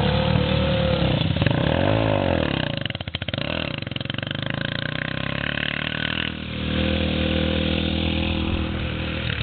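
Yamaha TTR dirt bike's small four-stroke single-cylinder engine riding past, its revs rising and falling, dropping to a low putter about three seconds in, then running at steady revs.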